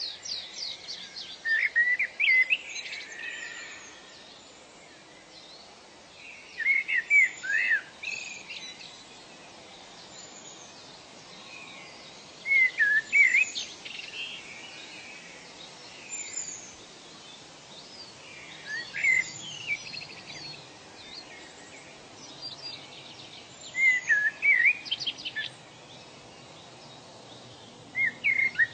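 Bird song: a bird repeats a short phrase of quick swooping notes about every five or six seconds. A faint steady background hiss runs under it.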